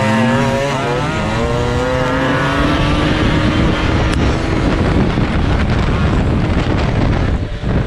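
Small motorcycle engine running hard under way, its pitch climbing over the first few seconds, then a steady dense roar that dips briefly near the end.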